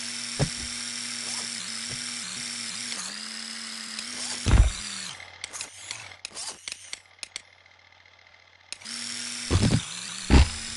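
An electric RC monster truck's motor whining steadily, with loud thumps about half a second and four and a half seconds in. The whine stops about five seconds in, leaving scattered clicks and rattles and a short near-silence, then picks up again near the end with more thumps.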